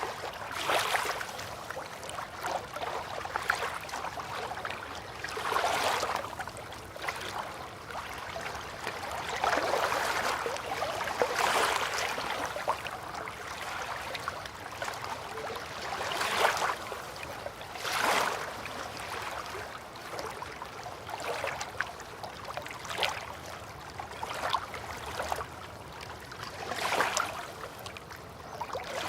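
River water lapping at the bank, small waves swelling and washing in at irregular intervals a few seconds apart over a steady soft wash.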